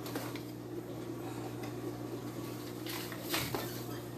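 Quiet handling noises with a few light clicks and a knock about three seconds in, over a steady low hum.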